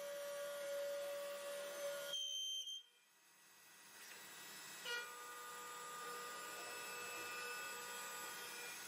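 CNC mill-turn machine running while machining, a steady whine of several held tones. It cuts out abruptly under three seconds in and builds back up over the next two seconds, with a short knock around the five-second mark.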